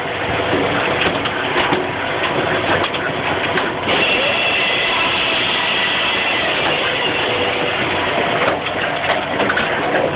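Tajfun RCA 400 firewood saw-splitter running: a steady mechanical noise with many small knocks, and a thin high whine that comes in about four seconds in.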